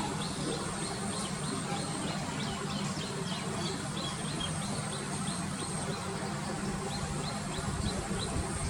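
A small bird chirping in a quick series of short, high notes, about three a second, with a brief pause a little after halfway, over a steady low rumble.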